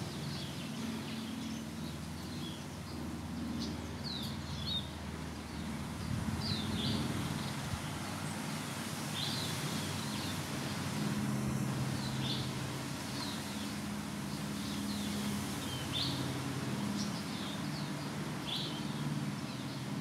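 Small garden birds chirping: short, high calls every second or two over a steady low background rumble.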